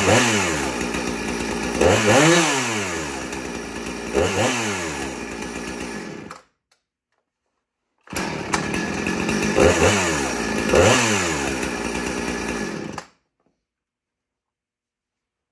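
Husqvarna 455 Rancher two-stroke chainsaw engine running loud and steady, in two stretches split by about two seconds of silence; it stops about two seconds before the end.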